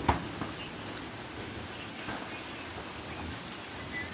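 Steady rain falling, with one sharp knock just after the start.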